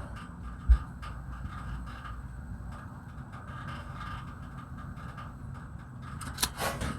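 Quiet handling noise with a low steady background hum: a single knock about a second in, then some rustling and clicking near the end.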